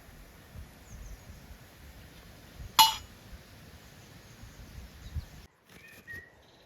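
One sharp clink of hard objects knocking together, with a brief ringing tail, about three seconds in, over low handling noise. Near the end comes a short bird call.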